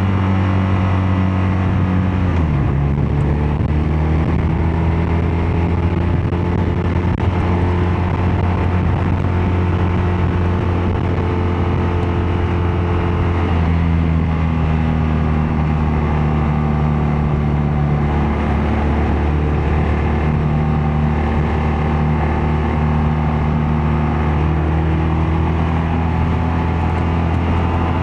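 BMW R12 nineT's 1170 cc boxer-twin engine and exhaust running under way while riding. The engine note holds steady, dropping in pitch about two and a half seconds in and again around eighteen seconds, and rising again around thirteen seconds and near the end as the revs change.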